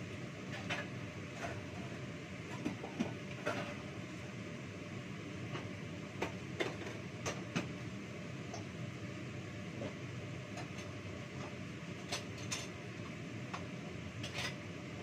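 Tempe frying in oil in a pan on a gas stove: a steady sizzle with scattered sharp pops and clicks.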